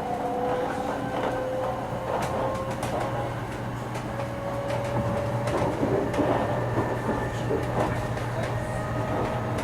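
700 series Shinkansen running, heard on board: the traction motor and inverter whine rises slowly in pitch as the train gathers speed, over a steady low running rumble with scattered light clicks.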